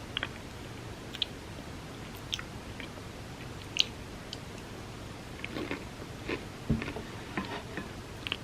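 A person chewing soft chocolate cake soaked in almond milk, with sparse wet mouth clicks at first and a busier run of chewing from about five seconds in.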